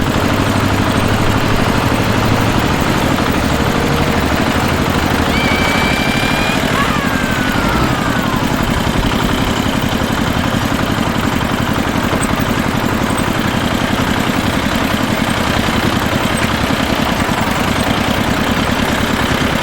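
An engine running steadily at a constant speed, like idling, with no change in pace.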